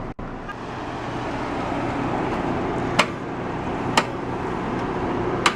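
1992 Nissan Stanza's 2.4-litre four-cylinder engine idling steadily, growing louder over the first couple of seconds, with three sharp clicks in the second half.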